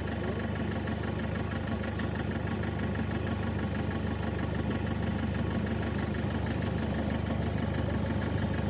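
A car engine idling steadily: the donor car running to charge and jump-start a flat battery.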